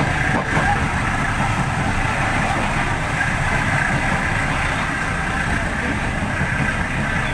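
Diesel-hauled local passenger train running: a steady, unbroken low rumble with rail and wheel noise above it.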